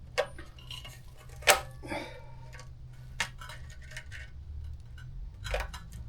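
Metal clinks and knocks from hand tools and motorcycle exhaust hardware being worked: a handful of sharp separate clinks, the loudest about a second and a half in, with a quick cluster near the end, over a low steady hum.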